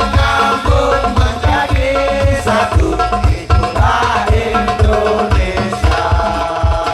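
Live sholawat-style group music in an instrumental passage: hand drums and a deep drum keep a steady beat under a sustained melody line.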